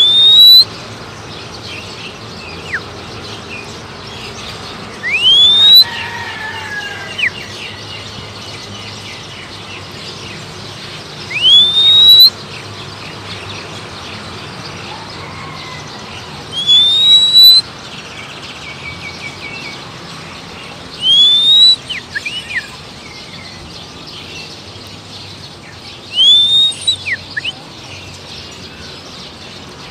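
A rising whistle, one loud upward-sliding note repeated about six times at roughly five-second intervals, whistled to call an Oriental magpie-robin. Short faint bird notes come between the whistles.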